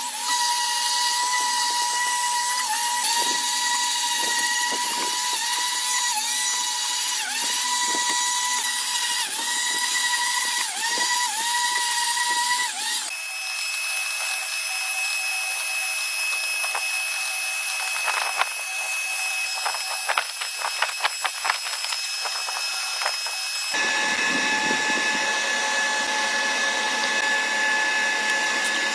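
Electric power tool running with a steady high whine, its pitch dipping briefly now and then as it bites. The sound cuts abruptly twice to other tool sounds, with a quick run of clicks in the middle stretch.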